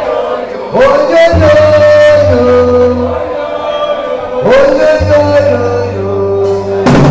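Live reggae band: a male voice calls out twice, each time swooping up into a long held note, over bass guitar. Drums crash in with a fill near the end.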